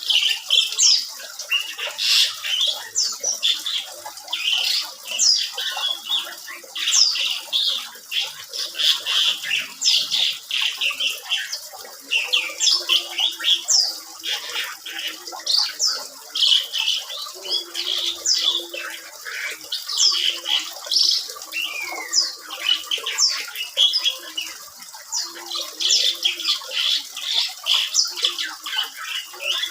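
Asian pied starling (jalak suren) singing a long, unbroken song: a rapid stream of sharp, high whistles and squawky notes, many sweeping up or down in pitch.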